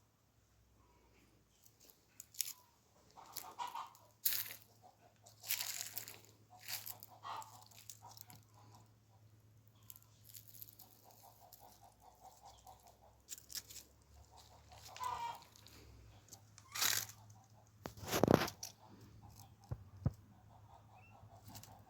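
Short animal calls, among them an evenly pulsed run, with scattered crunching, rustling and ticks.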